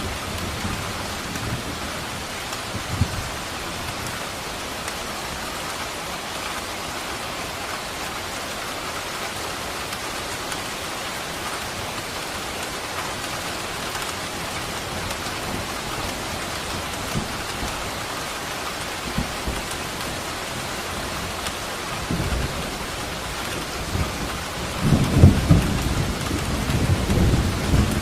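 Steady rain falling, with thunder rumbling low and building up loudly in the last few seconds.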